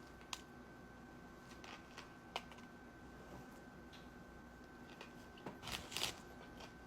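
Faint, scattered clicks and crackles of someone eating a sub sandwich: chewing, and handling the sandwich and its wrapper, with a louder burst of crackling about five and a half seconds in. A faint steady hum runs underneath.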